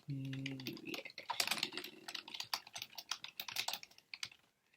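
Rapid typing and clicking on a computer keyboard that stops shortly before the end, with a short hummed note from a voice at the start.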